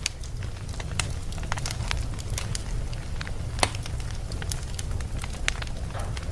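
Wood fire burning in a fireplace: irregular sharp crackles and pops, the loudest about halfway through, over a steady low rumble of the flames.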